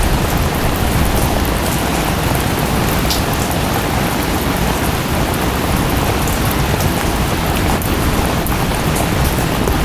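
Waterfall and rain: a steady, even rush of falling water, with scattered sharp ticks of drops.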